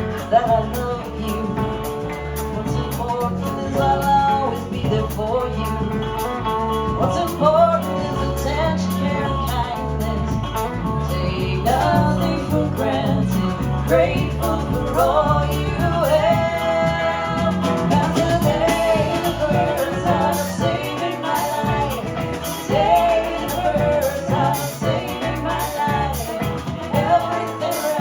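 Live band playing a rock song, with electric guitar over bass and drums, loud and continuous.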